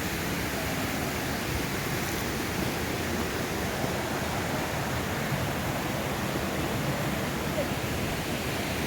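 A waterfall: the steady rush of falling water, even and unbroken.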